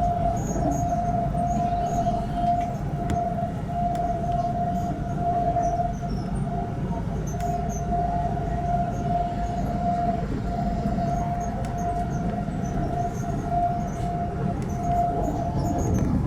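Train running, a steady rumble with a steady high whine held on one pitch over it; the whine stops near the end and a lower one carries on.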